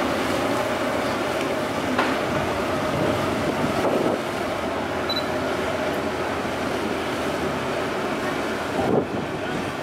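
Steady drone of a passenger ship's engines, mixed with wind noise, with a few brief knocks.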